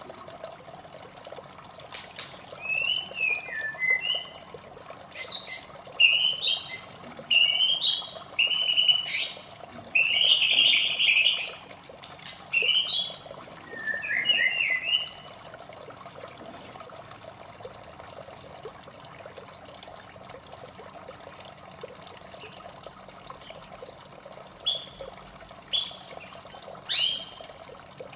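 White-rumped shama singing a run of varied whistled phrases for about thirteen seconds, then falling silent before a few short sharp notes near the end. A steady rush of running water goes on underneath.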